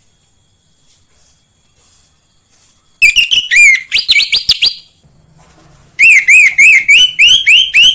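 Orange-headed thrush singing loudly in two bursts of quick, repeated whistled notes, the first about three seconds in and the second about six seconds in, each lasting about two seconds.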